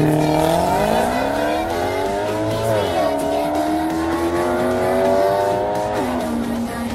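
Sports car engine accelerating hard, its note climbing steadily. About three seconds in the note drops sharply, then climbs again, and it falls back once more near the end.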